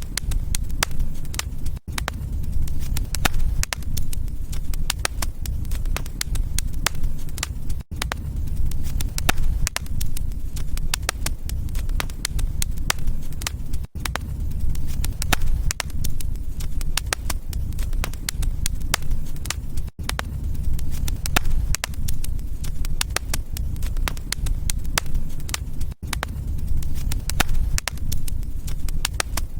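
Wood fire crackling, with many sharp snaps and pops over a steady low rumble. The sound drops out briefly about every six seconds.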